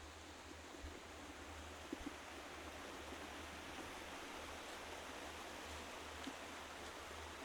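Faint, steady rush of a flowing forest stream, with a couple of soft taps.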